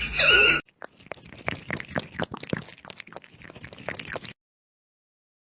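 A short cry falling in pitch, then about three seconds of crunchy chewing by a pet, stopping abruptly.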